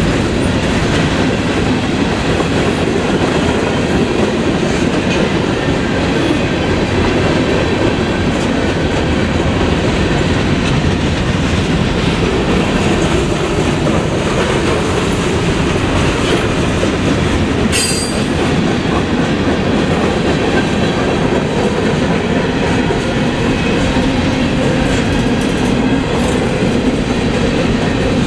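Freight train cars rolling steadily past at close range, wheels clicking over the rail joints, with one sharp metallic clank about two-thirds of the way through.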